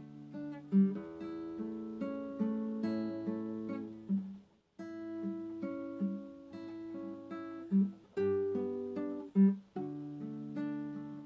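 Acoustic guitar (violão) played slowly, single plucked notes and chords ringing out with a few stronger low bass notes. There is a brief break to silence a little under halfway through.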